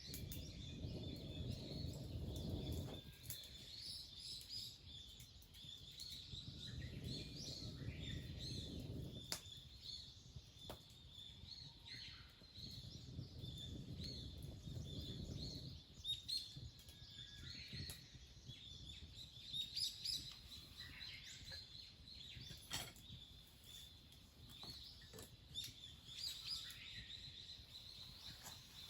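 Small birds chirping on and off, with three bursts of low rushing noise of about three seconds each in the first half and a few sharp clicks later.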